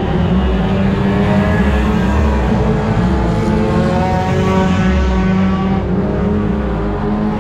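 1300cc stockcar engine running hard under race load, its note climbing steadily, then easing off near the end.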